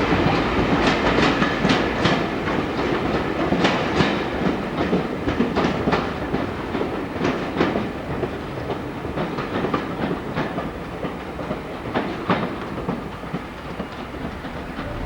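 A train running past on jointed track, its wheels clicking irregularly over the rail joints as it moves away and the sound slowly fades.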